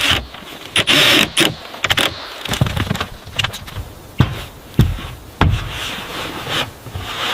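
Irregular knocks and scraping on wood, as in hand carpentry work.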